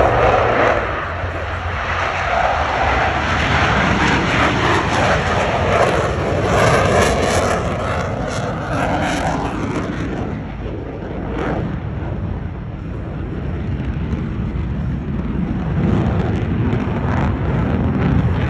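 Boeing F/A-18 Super Hornet jets taking off and climbing at full power: a loud, continuous jet roar with a whooshing sweep as a jet passes, about six to nine seconds in, easing off after about ten seconds.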